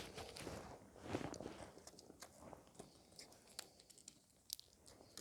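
Faint, irregular clicks and crackles, a little louder at the start and dying away.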